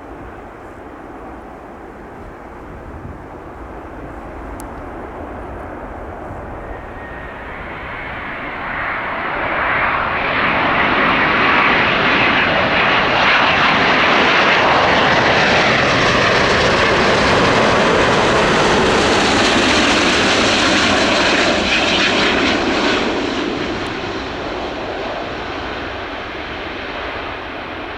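Airbus A350-900 jet airliner on landing approach passing close by, its engines and airframe rushing louder over several seconds, with a falling whine as it goes past, then fading near the end.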